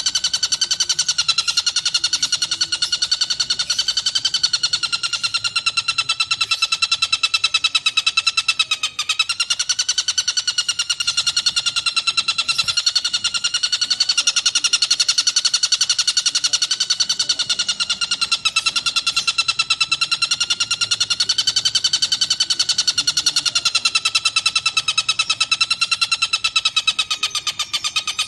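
Tengkek buto kingfisher calling without a break in a very fast, rattling trill that holds a steady high pitch, wavering only slightly up and down.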